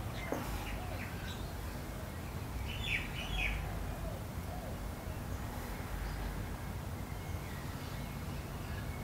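Garden birds chirping faintly, with a short cluster of chirps about three seconds in, over a steady low background rumble.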